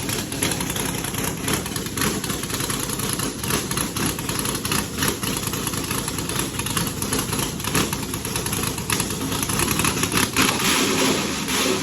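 Big-cam 408 cubic-inch stroker V8 idling through open zoomie headers, with a choppy, uneven lope of rapid exhaust pulses.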